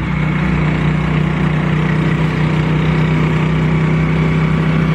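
Motorcycle engine of a Philippine tricycle running at a steady speed, a loud, even droning hum.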